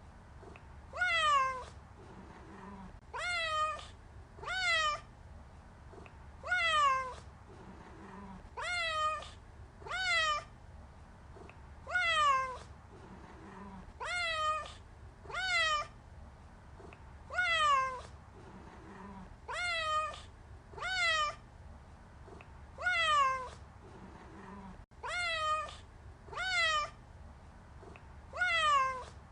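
Domestic cat meowing over and over, about twenty short meows, each falling in pitch, coming roughly every one to two seconds.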